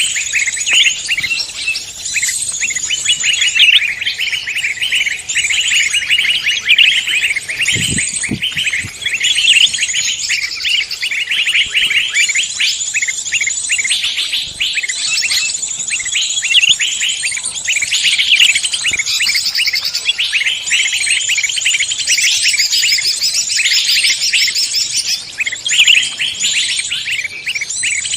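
A dense chorus of many songbirds chirping and trilling at once, calls overlapping without pause: a mixed-species bird-luring recording.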